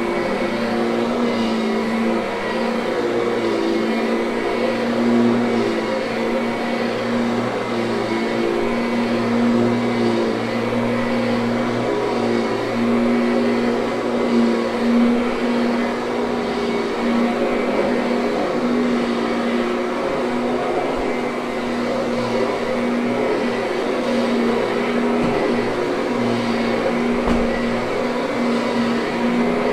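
Kirby upright vacuum cleaner running steadily on carpet, a constant motor hum with small swells and dips in level.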